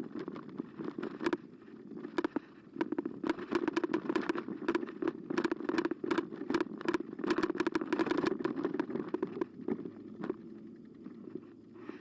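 Carbo X eBike being ridden over a rough path: a steady low rush of tyre noise with many sharp rattles and clicks, thickest from about three to nine seconds in and easing off near the end.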